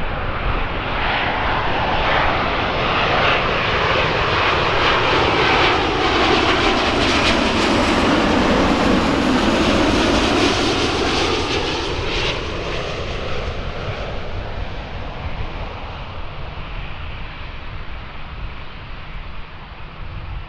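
Jet engines of a British Airways Boeing 777-200ER passing close by on arrival: the noise grows to a peak about halfway through, with a pitch that sweeps down and back up, then fades as the airliner moves away.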